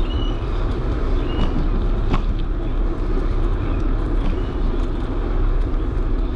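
Wind buffeting the microphone and tyre rumble of a bicycle rolling along a track, heard as a steady low rumble. Two short high chirps come in the first second and a half, and a sharp click about two seconds in.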